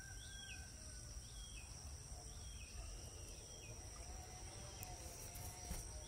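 Faint outdoor ambience: a small bird's short chirps repeating about once a second over a steady high-pitched hum and a low rumble.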